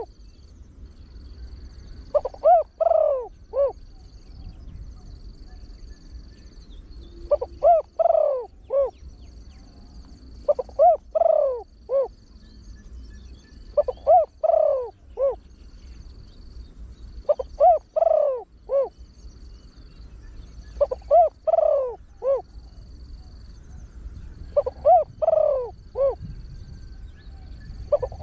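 Spotted dove, a trained bird with a deep voice, cooing: a phrase of four or five quick coos repeated about every three and a half seconds.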